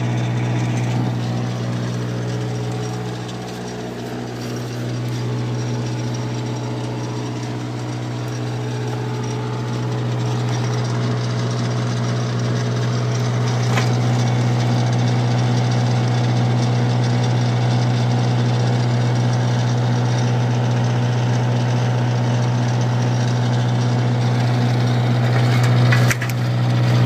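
John Deere diesel engine of a generator set running steadily at constant speed just after a cold start, with no glow plugs and the block heater unplugged, while it warms up. Its level dips briefly near the end, then comes back louder.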